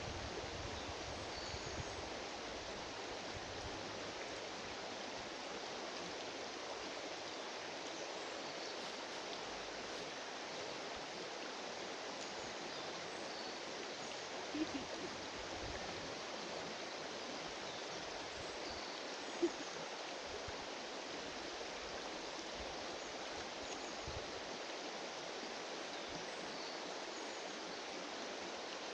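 River water flowing, a steady rushing hiss, with two faint short knocks about halfway through.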